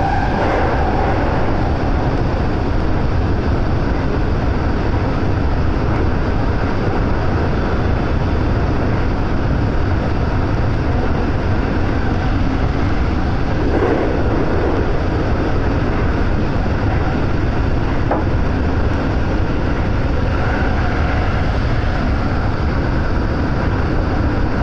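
223 series electric multiple unit running at speed through a tunnel, heard from inside the leading cab: a loud, steady rumble of wheels on rail, with a brief thump about fourteen seconds in.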